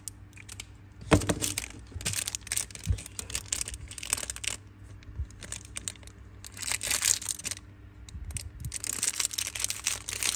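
A Zippo lighter being worked in the hand: sharp clicks and scratchy rasps, in irregular clusters, with the loudest click about a second in.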